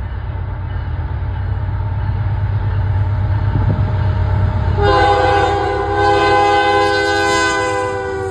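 Canadian Pacific diesel locomotive 8647 approaching with a low rumble that grows louder, then sounding its multi-chime air horn about five seconds in: a short blast followed by a longer one, the pitch sagging slightly as it fades near the end.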